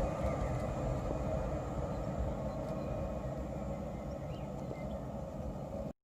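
Train running past, its low rumble slowly fading away as it moves off; the sound cuts off abruptly at the end.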